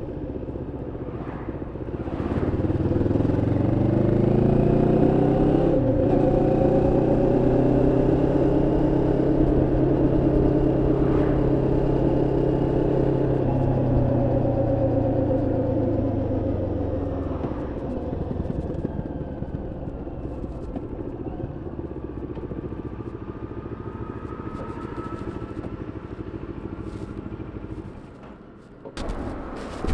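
Moto Morini X-Cape 649's parallel-twin engine on a running-in ride: it pulls up in pitch about two seconds in, changes up a gear around six seconds, holds steady, then eases off after about seventeen seconds.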